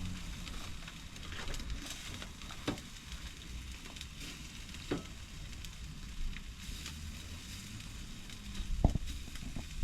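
Jerk chicken legs sizzling on a barbecue grill over the fire as they finish cooking: a steady hiss, with a few sharp knocks, the loudest one near the end.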